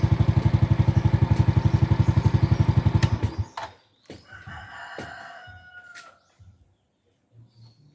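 Suzuki Raider J 115 Fi single-cylinder four-stroke engine idling with an even beat, then cutting off about three seconds in. A rooster crows shortly after, between a few light clicks.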